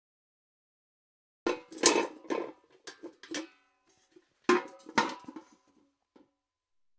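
Steel bucket clanking and rattling, its metal ringing after each knock: a quick run of clanks about a second and a half in, a second run a second later, and one small knock near the end.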